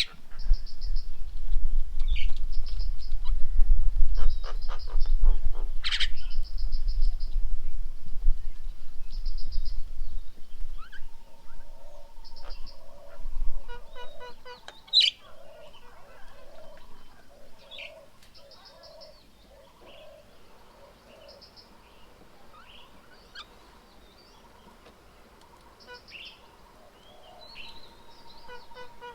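Birds calling around a garden bird table: quick trains of high chirps and short calls, joined about eleven seconds in by a low call repeated at an even pace. A low rumble runs through the first ten seconds.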